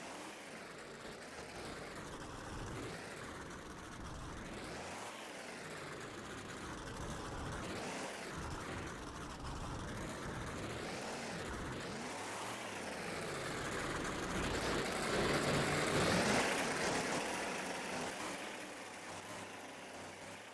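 Monster truck engine revving up and down repeatedly during a freestyle run, loudest in a long swell about three-quarters of the way through.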